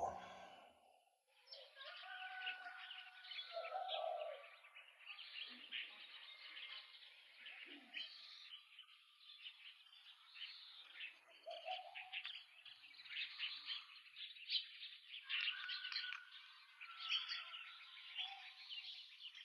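Many small birds chirping together, faint: a continuous chorus of short, quick calls.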